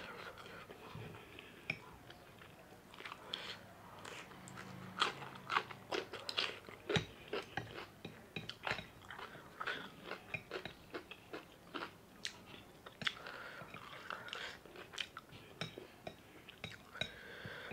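Close-up chewing of spicy ramen noodles: many irregular wet mouth clicks and smacks.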